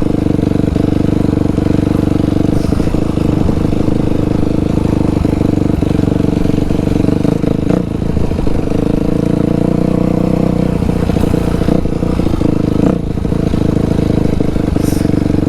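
Dirt bike engine running loud and fairly steadily, with brief dips in throttle about eight and thirteen seconds in.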